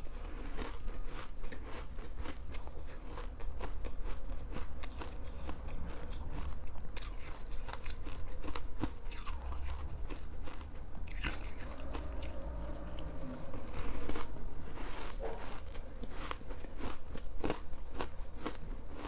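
Ice being bitten and chewed up close: repeated crisp crunches and crackles, one after another at an uneven pace.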